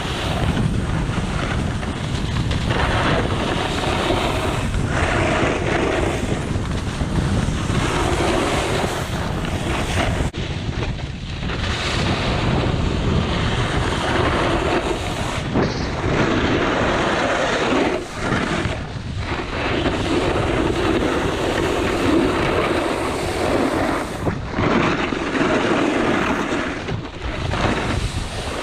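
Wind rushing over the microphone while snowboarding downhill, mixed with the board's edges scraping over icy snow. The rushing swells and eases, with a few brief lulls.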